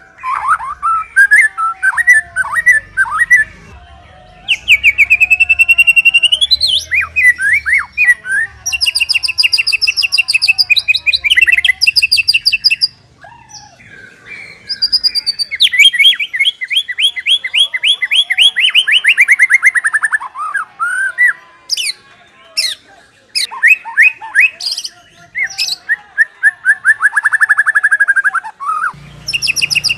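White-rumped shama singing a long, varied song of rich whistles and rapid trills, with brief pauses between phrases. Around the middle comes a long fast trill that slides down in pitch.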